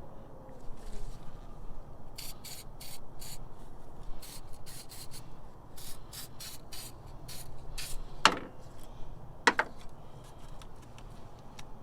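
A car battery terminal being scrubbed clean, in quick runs of short scratchy strokes about four a second, followed by two sharp knocks about a second apart.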